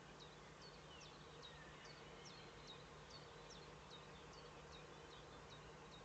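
Faint songbird chirping: short high notes, each dropping in pitch, repeated steadily about two to three times a second over a faint steady hum.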